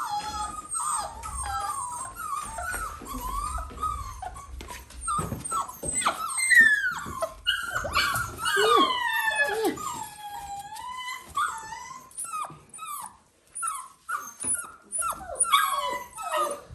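Dalmatian puppies whining and yelping, many short high calls overlapping and sliding up and down in pitch, with a few brief pauses.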